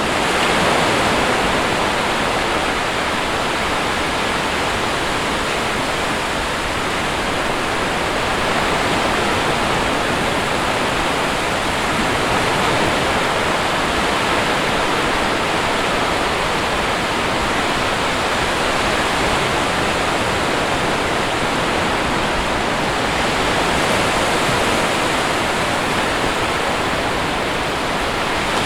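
Sea waves washing steadily on a shore, a continuous rushing surf that swells slightly a couple of times.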